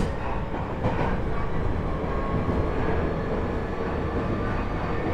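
Interior running noise of a JR East E127 series EMU motor car (Toyo Denki GTO-VVVF, MT71 traction motors, 14:99 gearing), running at steady speed with a steady gear whine over the rumble. This car is a known abnormal-noise car: besides the usual minor-seventh gear tones it carries an extra tone a semitone higher. A sharp knock at the very start and a smaller one about a second in, from wheels over rail joints.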